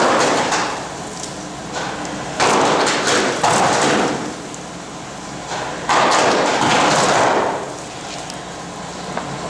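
Molten zinc in a hot-dip galvanizing bath popping and spattering as a steel truck frame is lowered in: several sudden loud bursts of spitting, sizzling noise, the last and longest about six seconds in. The popping comes from the cold steel and flux meeting the hot zinc, which is taken to be the heat difference.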